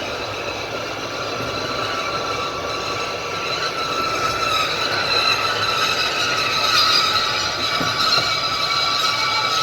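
A passenger train's carriage wheels running on the rails, heard from the carriage window: a steady running rumble with high, multi-toned wheel squeal that grows louder from about halfway through.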